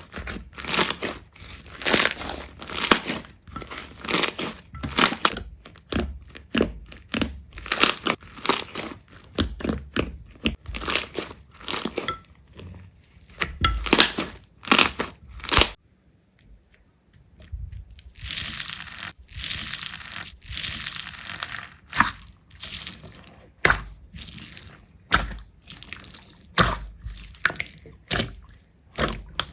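Slime being squeezed and pressed by hand, giving a dense run of sharp crackling clicks and pops. These stop briefly about halfway through, then return after a softer, hissier stretch.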